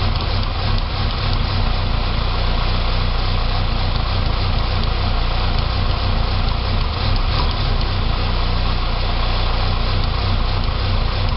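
2006 Saab 9-3 2.0T's turbocharged four-cylinder engine idling roughly, with a steady low running sound and small uneven dips. After an engine rebuild the owner thinks the rough idle is possibly vacuum related.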